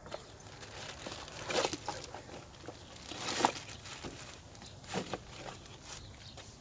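Packaging crinkling and rustling in gloved hands as a new EGR valve is taken out of its box, in short rustles, the loudest about one and a half, three and a half and five seconds in.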